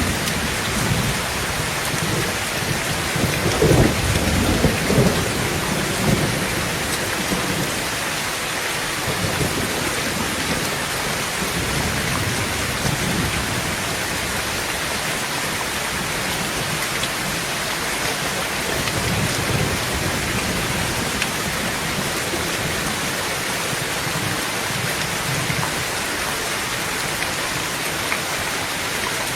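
Heavy rain falling steadily on a tin roof, with a rumble of thunder about four seconds in and fainter rumbles later on.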